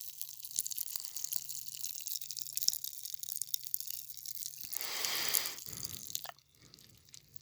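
Pop Rocks candy crackling in a mouth close to the microphone: a dense fizz of tiny pops as the candy dissolves and releases its trapped carbon dioxide. A short hiss comes about five seconds in, and near the end the crackle thins to a few faint pops.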